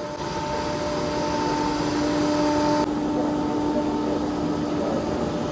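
Steady mechanical or electrical hum, one low held tone with overtones above it, over an even background din. The hum and the high hiss drop slightly about three seconds in.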